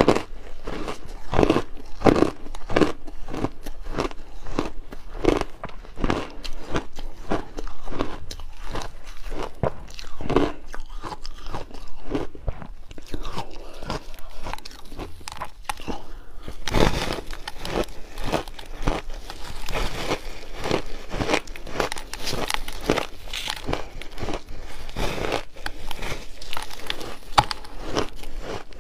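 A person biting and chewing a chunk of refrozen shaved ice: a steady run of crisp crunches. A louder bite about seventeen seconds in is followed by denser, brighter crunching.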